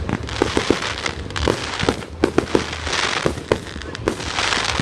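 Fireworks going off: many sharp bangs, several a second, over swells of crackling hiss.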